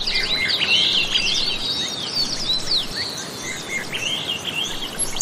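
Birds chirping, many short quick gliding calls overlapping, over a steady background noise.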